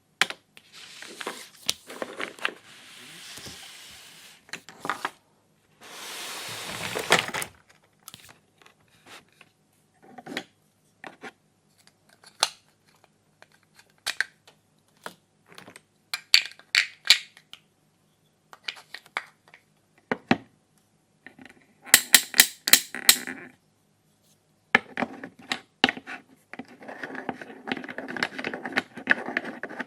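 Hands handling plastic toy kitchen pieces: scattered clicks and taps, two longer rasping sounds in the first seven seconds, a quick run of sharp clicks past the middle, and a rattling clatter near the end.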